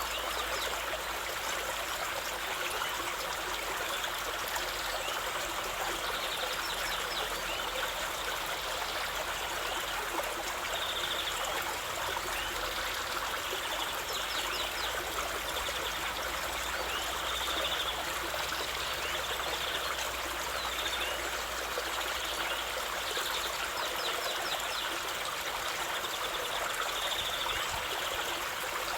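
Water of a flowing stream running and trickling steadily, with short faint high notes now and then.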